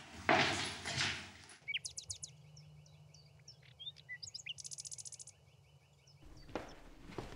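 Small birds chirping and twittering in a series of short, high calls for about four seconds, opening after a brief rush of noise. Near the end the background changes and there are a couple of soft knocks.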